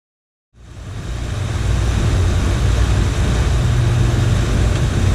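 Boat engine running steadily, a low rumble under a haze of wind and water noise, fading in after about half a second of silence.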